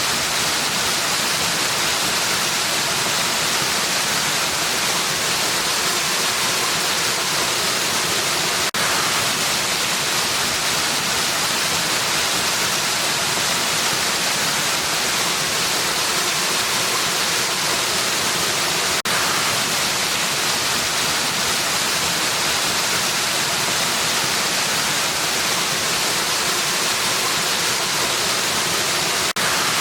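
Waterfall rushing in a steady, even hiss that sits mostly in the high range. It breaks with a brief dip three times, about ten seconds apart.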